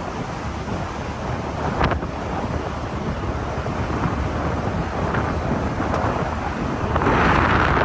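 Wind buffeting the microphone over a low rumble from a moving ride on a rough track. A sharp knock comes about two seconds in, and the rush grows louder and brighter near the end.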